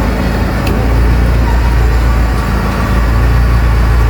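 Car engine running steadily, a low even hum, with a faint light click a little under a second in.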